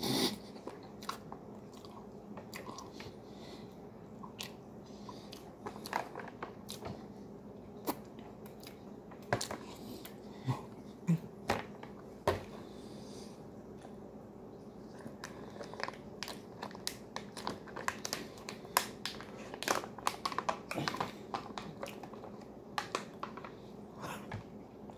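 Close-up chewing and mouth sounds of a person eating MRE peanut butter and cornbread, with scattered sharp clicks and crinkles from a plastic spork and the ration pouches.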